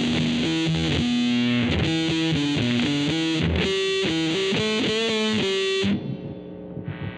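Jazzblaster-converted Fender Jazzmaster electric guitar played through heavy distortion: a riff of quick single notes with a bent note about five seconds in. The playing stops suddenly about six seconds in, leaving a faint amp hum.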